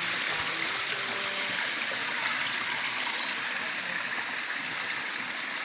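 Stream water rushing and splashing, a steady even noise.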